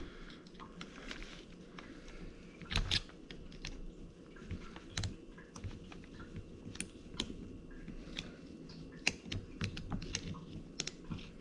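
Irregular light clicks and taps of hand tools and metal parts being worked on a CV drive axle during disassembly, with a louder cluster about three seconds in.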